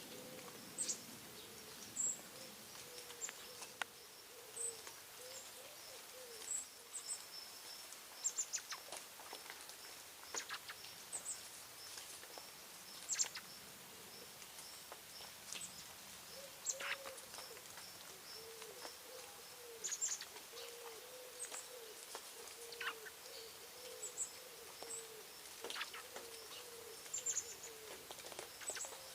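Birds calling: scattered short, high chirps and sharp falling calls, over a low call that repeats evenly through the second half.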